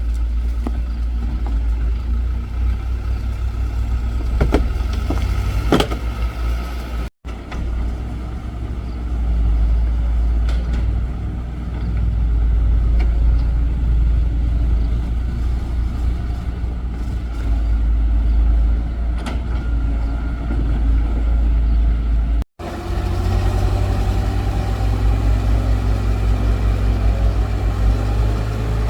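Excavator's diesel engine running steadily under load, with a few sharp knocks about four to six seconds in. The sound drops out abruptly twice, at cuts.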